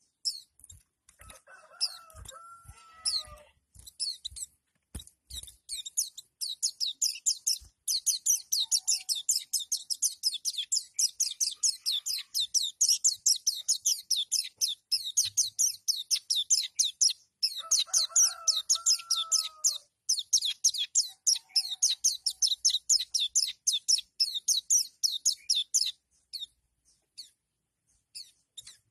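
White-eye (pleci) singing in the 'nembak' style: a long, very fast run of high, sharp repeated notes. A few sharp taps come in the first few seconds, and a lower gliding call sounds twice.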